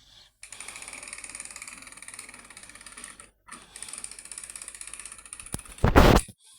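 Small geared motor of a toy train engine running, with a fast, even clicking rattle. It breaks off briefly about three seconds in and stops after about five and a half seconds. A loud knock follows near the end.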